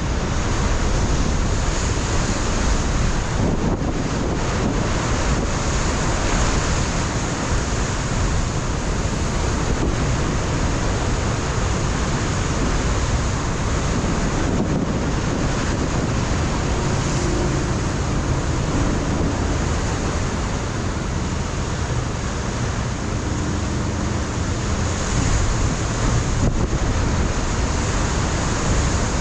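Ocean surf washing against a rocky shore, a steady rushing noise, with wind buffeting the microphone.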